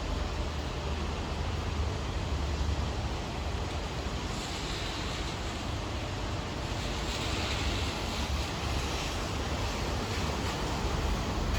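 Steady rain, a dense even hiss with a low rumble beneath it. The hiss swells briefly twice, about four seconds in and again around seven to nine seconds.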